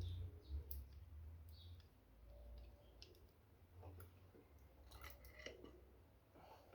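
Near silence, with a few faint scattered clicks and a low hum that fades in the first second or two.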